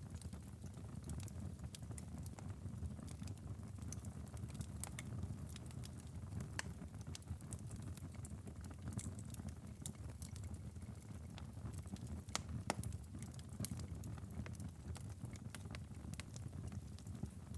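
Wood fire crackling in a fireplace: frequent irregular pops and snaps over a low steady rumble, with one louder pop about thirteen seconds in.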